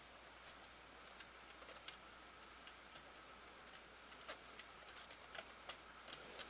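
Faint, irregular small clicks and taps of a VHS cassette's plastic parts being handled during a repair, over near-silent room tone.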